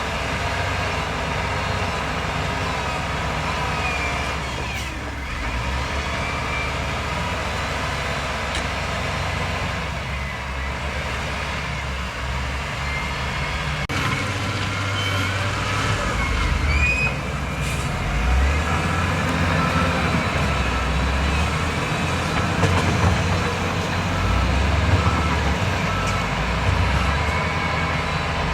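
Heavy diesel earthmoving machinery running at work: a steady low engine note that shifts and gets somewhat louder about halfway through as the load changes.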